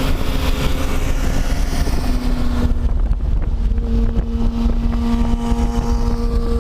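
Husqvarna 510SM single-cylinder supermoto engine running under way, with wind rushing over the microphone. About three seconds in the wind noise drops away and the engine note settles slightly lower as the bike slows.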